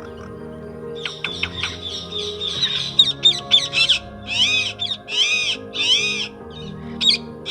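Songbird calls over soft background music: a run of quick chirps from about a second in, then three longer calls, each rising and falling in pitch, about a second apart.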